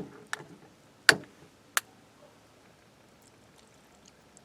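Four sharp clicks and knocks from cooking gear and containers being handled, the loudest about a second in, then only faint ticks.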